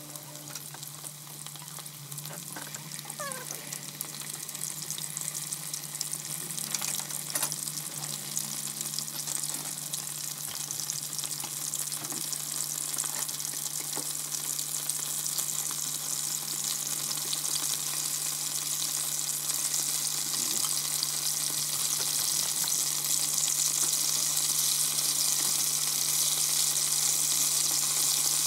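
Battered chicken pieces frying in a pan of hot oil: a steady sizzle that grows louder over the whole stretch, with a steady low hum underneath.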